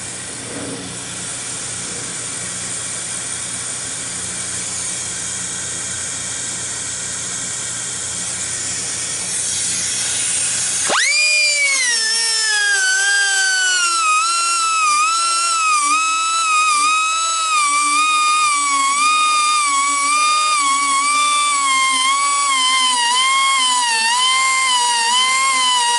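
A small high-speed grinder sharpening the teeth of a sawmill band blade. For about the first ten seconds it is a steady grinding hiss over a low hum; then a high whine sets in, sags in pitch, and dips and recovers about once a second as the tool loads on the steel.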